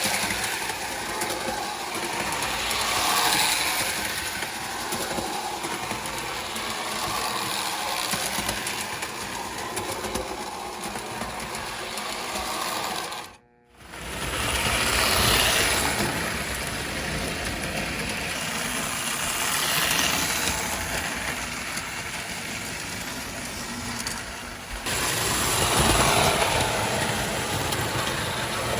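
O-gauge model train running on its track: steady electric motor whir with wheel and rail clatter, swelling louder every few seconds as it comes round past the microphone. The sound cuts out briefly about halfway through, then resumes.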